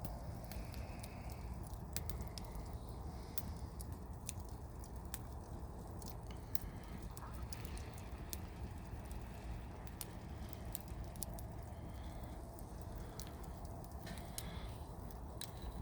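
Wood campfire burning, with scattered sharp crackles and pops from the burning wood over a steady low rush.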